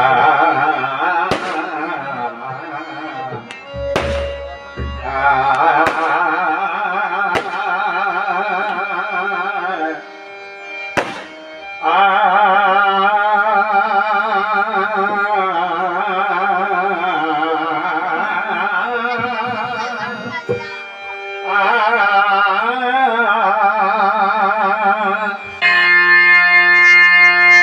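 Traditional Marathi bhajan music: a singer's wordless, wavering alaap in long phrases over harmonium, with a few sharp percussion strokes. Near the end the wavering voice stops and steady held harmonium notes remain.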